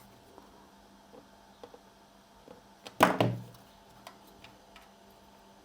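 Light clicks and small knocks of hand tools working on a motherboard while its CPU heatsink is taken off, with one sharp clunk about three seconds in.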